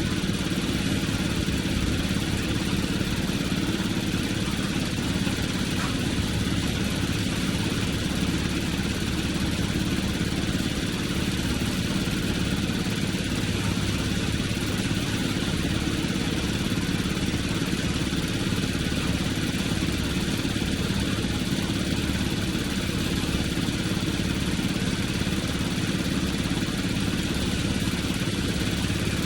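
An engine idling steadily at an even pitch, without revving or change.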